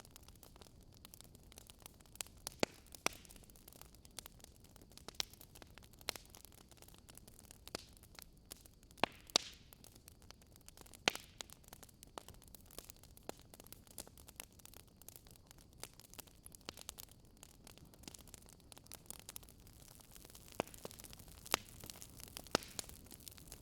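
Wood fire crackling: a faint hiss and low rumble with irregular sharp pops and snaps, a few of them louder.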